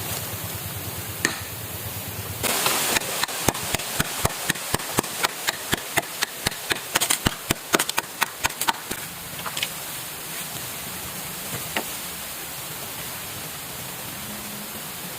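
Rapid chopping strikes of a blade into wood, about three to four a second, starting about two and a half seconds in and stopping about six seconds later, with a few single knocks on either side.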